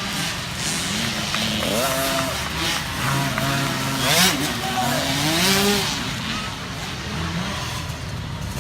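Several small youth dirt bike engines revving, their pitch climbing and dropping again and again, loudest about four seconds in.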